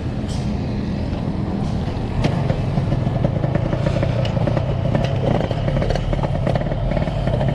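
Yamaha RX-King two-stroke motorcycle engine running as the bike pulls away; it gets louder about two seconds in as the throttle opens and stays up.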